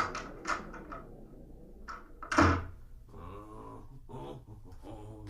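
A door being opened and shut: sharp clicks and knocks, then a heavy thump about two and a half seconds in, followed by a low voice, recorded binaurally.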